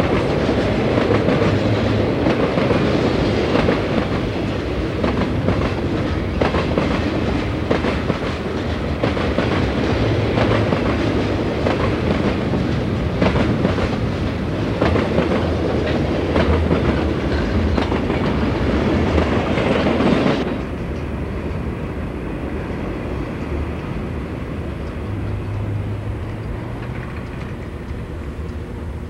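Southern Pacific freight cars rolling past close by: a dense rumble of wheels on rail, with a run of sharp clicks at the rail joints. About two-thirds through, the last car clears and the noise drops suddenly to a fainter rumble as the train moves away.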